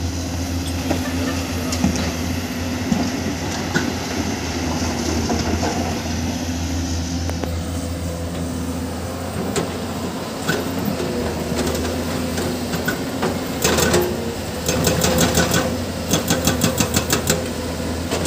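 Diesel engine of heavy construction machinery running steadily. In the last few seconds come bursts of rapid, evenly spaced knocking, several strokes a second.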